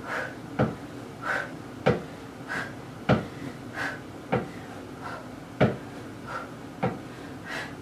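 Rhythmic dull thumps about every second and a quarter as a person does decline knee tucks with the feet on a box, alternating with short, forceful exhalations.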